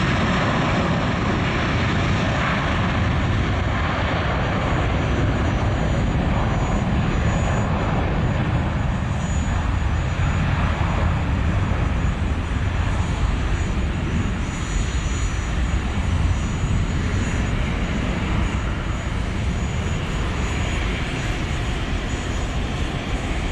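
Cessna Citation Latitude business jet taxiing, its twin Pratt & Whitney Canada PW306D turbofans running at low thrust: a steady rushing noise with a faint high turbine whine.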